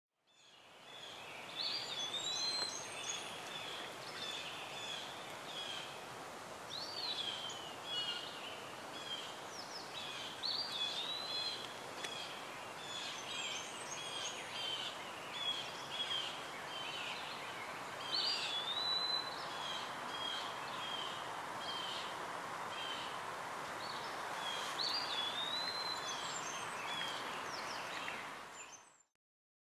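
Birds singing outdoors, one repeating a short whistled phrase every few seconds among scattered chirps, over a steady hiss of outdoor background noise. It fades in at the start and fades out near the end.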